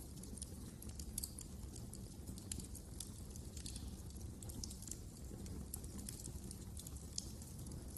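Wood fire crackling: irregular small pops and snaps over a steady low rumble of the burning fire.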